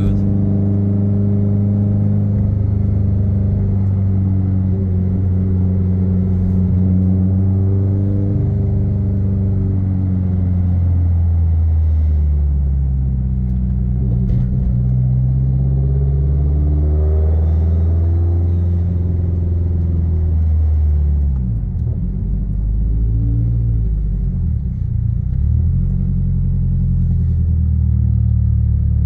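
Modified 2017 Subaru WRX STI's turbocharged flat-four engine running under way through an aftermarket cat-back exhaust. Its note rises and falls as the revs change, and it wavers and dips briefly about two-thirds of the way through.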